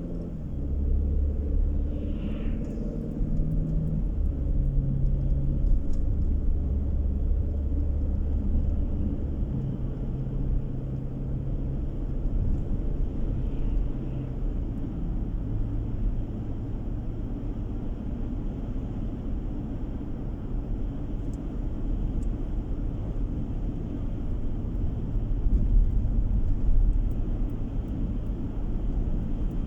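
Car driving on the road, heard from inside the cabin: steady low engine and tyre rumble, with the engine note stepping to a new pitch a few times as speed changes.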